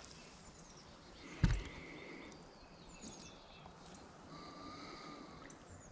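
Quiet lakeside ambience with faint bird calls: thin whistles, one a little after a second in and another longer one about four seconds in. There is a single dull thump about a second and a half in.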